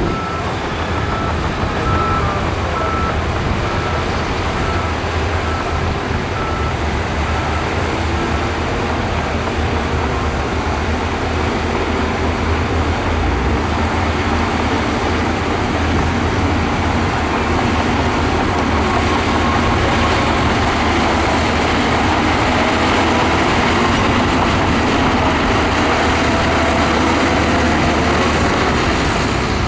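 Heavy diesel earthmoving machinery running steadily under load. A reversing alarm beeps at an even pace over the first third, then stops. The engine noise grows slightly louder in the second half.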